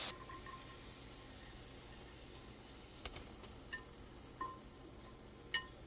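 A few light clicks and clinks of a cooking utensil against a frying pan, some with a brief metallic ring, scattered through the second half over a quiet background.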